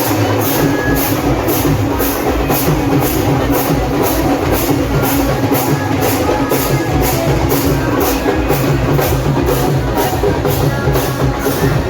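Procession drums and cymbals playing a steady, loud rhythm, about two to three strokes a second.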